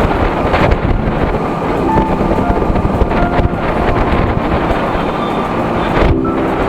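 Wind rushing over the microphone with the Hero HF Deluxe's 100cc single-cylinder engine running underneath while riding.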